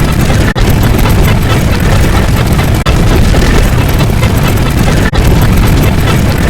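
Loud, continuous rumbling sound effect, heaviest in the bass, with short dropouts about every two and a quarter seconds, as where a clip is looped.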